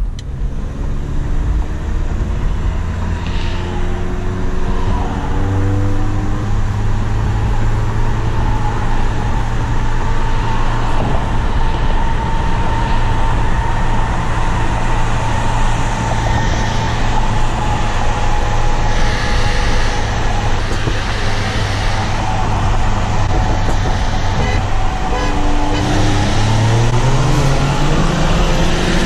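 Tuned 2.0 turbo four-cylinder of a manual MK7 VW Golf GTI, heard from inside the cabin: it climbs in revs for the first few seconds, then runs at a steady cruise drone, and over the last few seconds revs rise steeply as the car accelerates hard.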